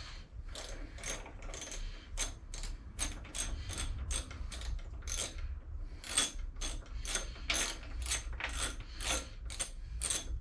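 Hand ratchet wrench clicking in a quick, even run of strokes, about two to three clicks a second, as a plug is backed out of a Briggs & Stratton mower engine.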